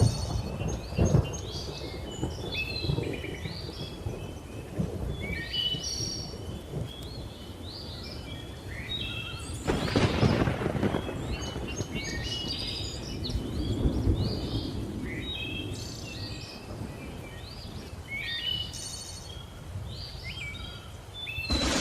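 Thunder rumbling low and continuously while many birds keep up short chirping calls, with a louder thunderclap about halfway through.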